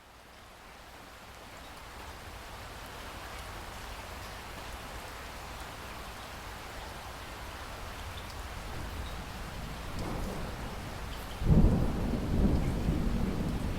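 Steady rain that fades in and slowly grows louder, with scattered drops ticking. Near the end a loud, low rumble of thunder breaks in and keeps rolling.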